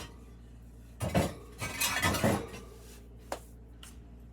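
Fired ceramic pieces and kiln furniture clinking and scraping against each other inside a kiln being unloaded: a run of clatter lasting about a second and a half from about a second in, then a single click.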